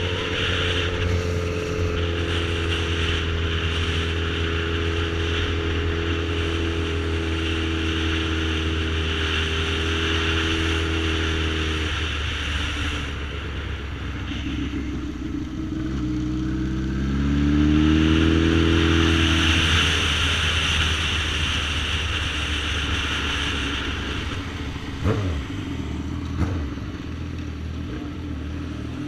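Sport motorcycle engine under way, with steady wind rush: the revs sink slowly for about twelve seconds as the throttle is eased off, then climb again about sixteen seconds in on acceleration and settle. Two short knocks come near the end.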